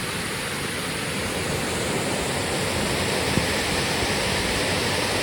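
Steady rush of a waterfall's falling water, a dense, even noise with no breaks.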